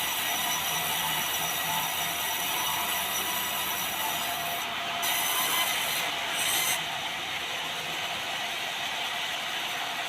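Sawmill blade cutting through white meranti timber: a steady, continuous rasping noise, with the highest hiss dropping away about seven seconds in.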